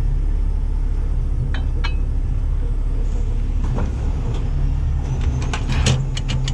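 Heavy truck diesel engine running steadily at idle. A few sharp knocks come about one and a half seconds in, and a quicker cluster of them near the end.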